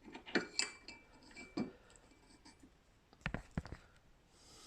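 Small metal parts of a model traction engine's perch bracket and tow hitch being handled and set together, clinking and knocking lightly, with a cluster of sharper metal knocks about three seconds in.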